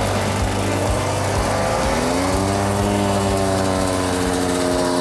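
Small motocross motorcycle engine running, picking up revs about two seconds in and then holding a steady pitch as the bike rides along.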